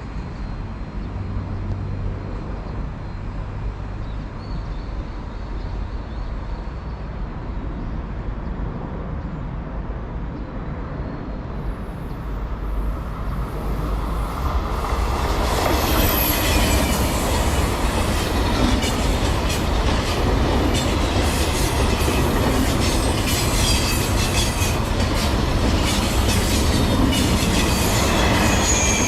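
A train running past on the tracks: a low rumble that swells about halfway through, then wheels squealing and clacking over the rails as it goes by.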